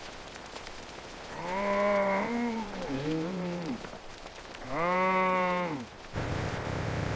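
Sheep bleating twice, the first call long and wavering, the second shorter and steadier, over faint rain. A louder steady hiss cuts in near the end.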